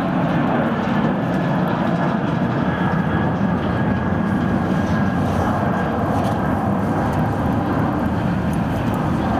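Jet engines of a Boeing 747-400 airliner, a loud, steady noise that neither rises nor falls.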